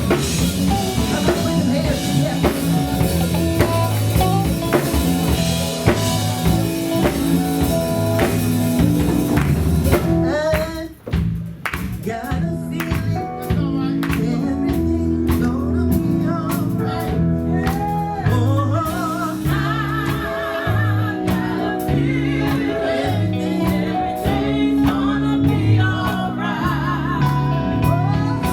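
Live gospel band music with singing over bass, drums and guitar, with a brief drop in level about eleven seconds in before the music resumes.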